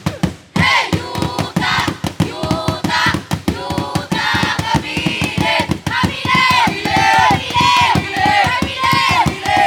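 Fast, steady drumbeat with a group of voices chanting and calling out over it.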